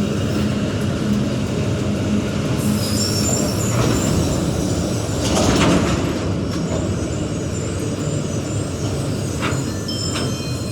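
Freight train wagons rolling past: a steady rumble with wheels clattering over the rail joints, loudest about five and a half seconds in, and a few sharper knocks near the end.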